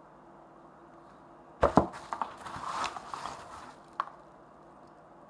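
Wooden kendamas and packaging being handled: a few sharp wooden knocks about a second and a half in, then a couple of seconds of rustling with small clicks, and one sharp click near the end.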